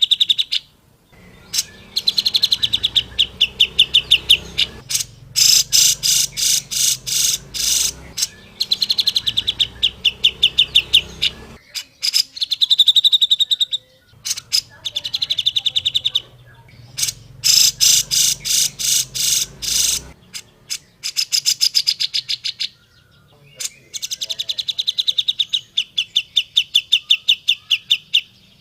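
Grey-cheeked bulbul (cucak jenggot) singing in repeated phrases of rapid, chattering notes, each phrase lasting a few seconds, with short pauses between them.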